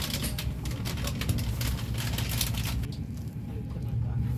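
Intercity passenger train running, heard from on board as a steady low rumble, with a run of quick sharp clicks and rattles during the first three seconds.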